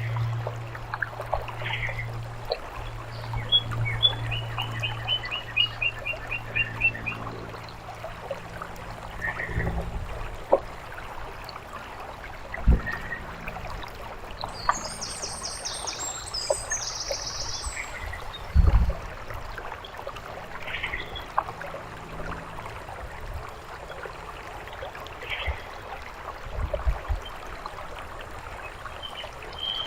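Birdbath fountain water trickling steadily while songbirds call. A quick run of repeated whistled notes comes a few seconds in, short chirps are scattered throughout, and a burst of very high notes comes about halfway. A low hum fades out in the first quarter, and a few dull thumps are heard, the loudest just past halfway.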